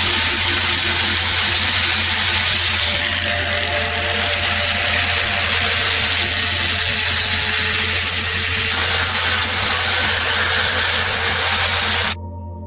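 A power tool running steadily with an even hiss and a constant low hum, which cuts off abruptly near the end.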